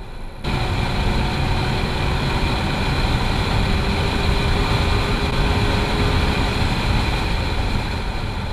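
Chevrolet C7 Corvette Grand Sport's 6.2-litre LT1 V8 and road noise heard from inside the cabin at track speed: a loud, steady drone that cuts in abruptly about half a second in.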